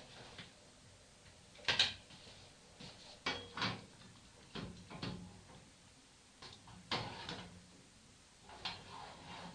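A scattered series of short knocks and clunks in a flat, like a door or cupboard being shut, about seven in all, the loudest about two seconds in. The resident takes them for the upstairs neighbours knocking.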